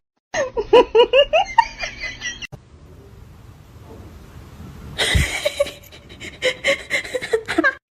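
A person laughing in a quick run of short bursts, stopping after about two seconds, then laughing again from about five seconds in.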